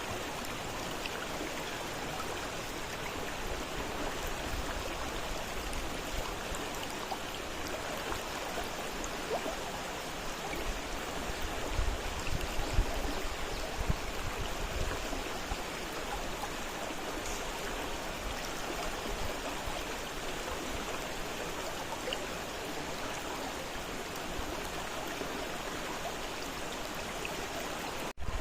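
Fast-flowing river, a steady rush of water, with some stronger low rumbling about twelve seconds in. The sound cuts out for a moment just before the end.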